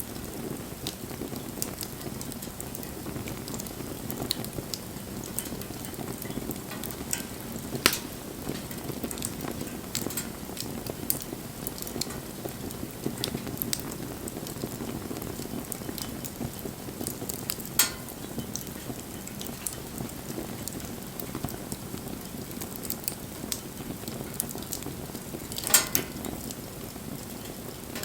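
Wood campfire burning with a steady crackle and hiss, scattered with small snaps and three louder sharp pops.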